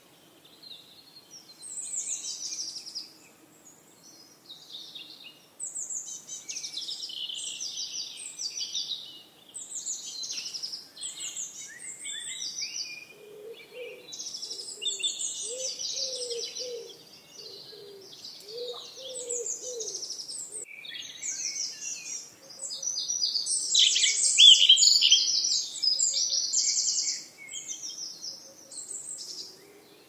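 Several songbirds singing and chirping at once in overlapping high calls and rapid trills, busiest and loudest about three-quarters of the way through. A lower call repeats several times in the middle.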